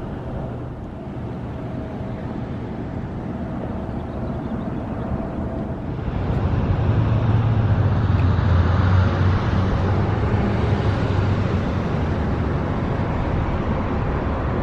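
Road traffic driving past on the roadway, a continuous rumble that swells about six seconds in as a louder vehicle goes by.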